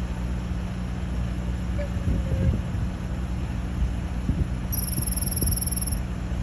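Steady low hum of an idling vehicle engine, with a few low thumps around two seconds in. Near the end a high, fast-pulsed trill sounds for just over a second.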